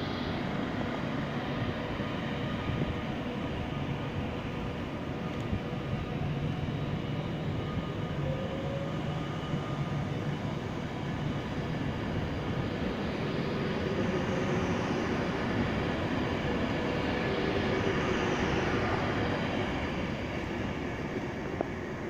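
Train running at a station: a continuous rumble, growing slightly louder about two-thirds of the way in, with faint whining tones that glide in pitch.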